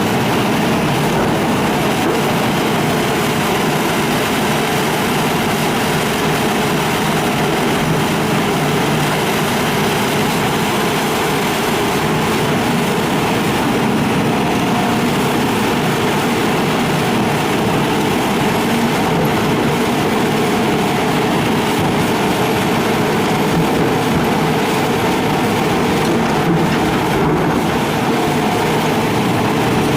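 Hitachi excavator's diesel engine and hydraulics running steadily under load, an even, unbroken mechanical noise.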